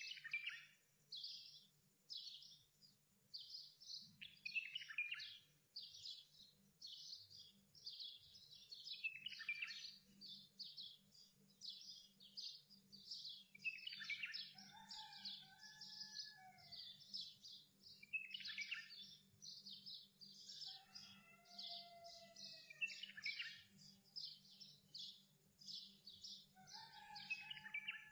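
Birds chirping faintly and continuously in a rapid run of short high notes, two or three a second, joined three times by a lower sliding whistled call, over a faint steady low hum.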